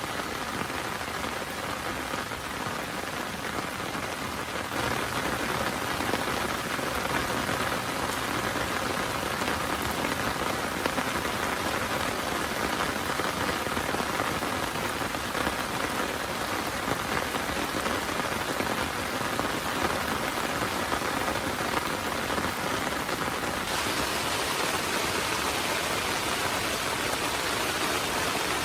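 Heavy rain falling steadily, growing a little louder about five seconds in.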